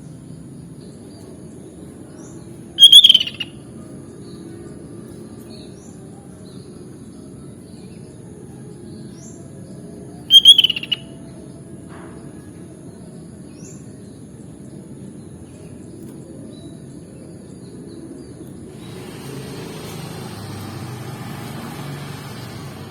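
Sooty-headed bulbul (kutilang) calling: two loud, short call phrases about seven seconds apart, with faint scattered chirps between them over a steady low background. A hiss comes up about three-quarters of the way through.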